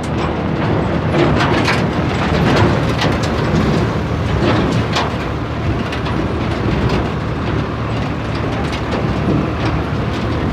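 Tractor engine running steadily under way, with frequent rattles and knocks from the tractor and its load throughout.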